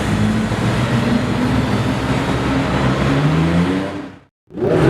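Porsche sports car engines driving past at low, fairly steady revs over road noise, the engine note drifting slowly upward, then dying away about four seconds in. After a brief silence, another engine starts to rev with a quickly rising pitch right at the end.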